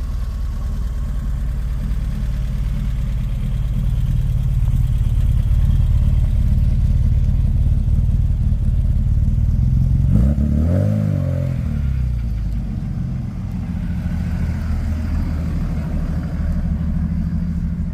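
A car engine running steadily, revved once about ten seconds in, the pitch rising and falling back before it settles.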